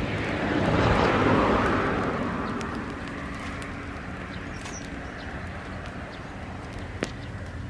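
Dry-grass bonfire crackling, with scattered small ticks and a sharp pop near the end. A rushing noise swells up about a second in and dies away over the next two seconds.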